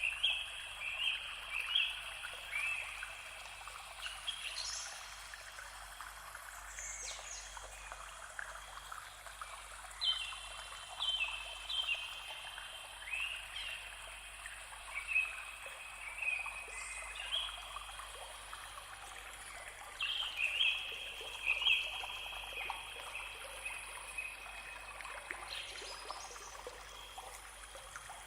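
Steady trickling, running-water noise with short runs of high calls stepping down in pitch, returning about every ten seconds, and a few quick rising chirps.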